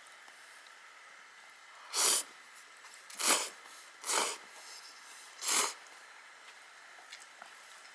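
Four short, loud slurps of instant ramen noodles, spaced about a second apart.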